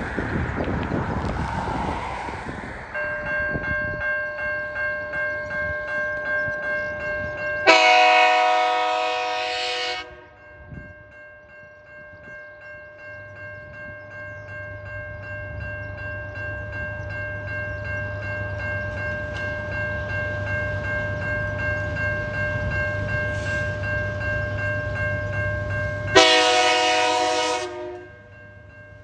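Level-crossing bells ringing steadily while a TasRail freight train approaches, led by locomotive TR15. Its multi-note horn sounds two long blasts, about eight seconds in and again near the end. Between the blasts the locomotive's diesel engine hum grows louder as it nears.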